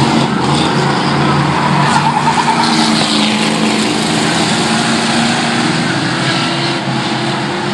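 Engines of several classic race trucks running together on the track at speed, with engine pitch shifting and one engine slowly rising in pitch near the end.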